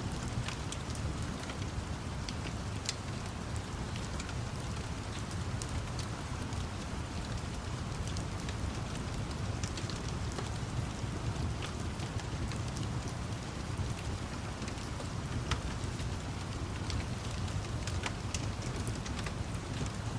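Steady rain mixed with a crackling wood fire: scattered sharp pops over an even hiss and a low, steady rumble.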